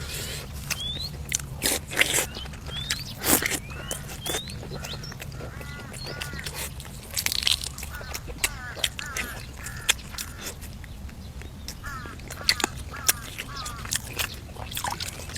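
A person eating braised duck and vegetables: repeated crunching bites and chewing, with small birds chirping in the background.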